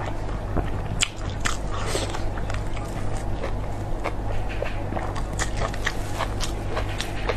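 Close-miked biting and chewing: a dense run of sharp, crackly clicks from the bites and wet chewing, over a steady low hum.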